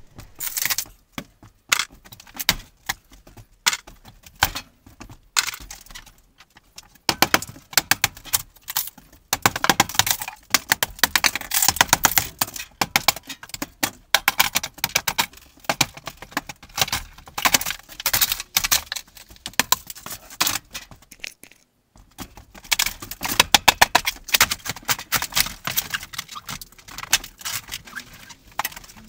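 Old camper's wooden kitchen cabinets being pulled apart and torn out: dense, irregular clattering, cracking and rattling of wood and panelling, with a brief pause about three-quarters of the way through.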